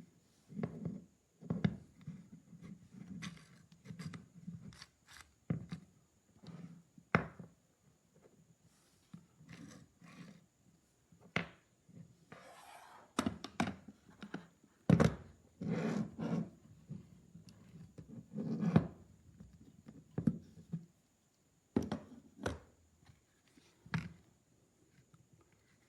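Irregular knocks, clicks and thunks of objects being handled and set down, with a short rustle about thirteen seconds in.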